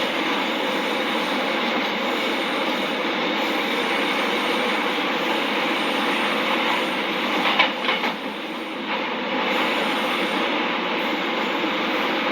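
Korail VVVF-inverter electric train running at a steady speed: an even wheel-on-rail noise with faint steady tones. A short cluster of sharp clacks comes about seven and a half seconds in, and the sound is briefly quieter just after.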